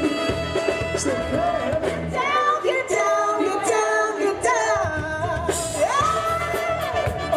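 Live band playing an upbeat disco song, with a lead singer over steady drum beats.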